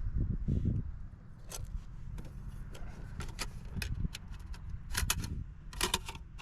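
Irregular sharp clicks and clinks of small hard objects being handled, with low rumbling handling noise in the first second.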